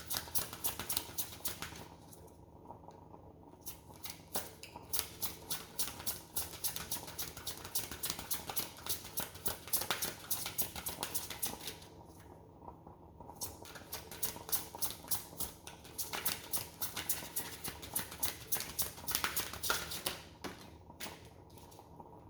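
A deck of oracle cards shuffled by hand: rapid papery flicking and clicking of the cards, in three runs of several seconds each with short pauses between.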